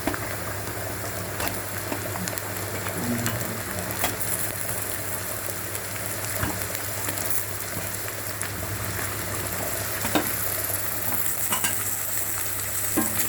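Mutton mince balls and onions sizzling steadily as they fry in coconut oil in a pan, with a few sharp clicks through it.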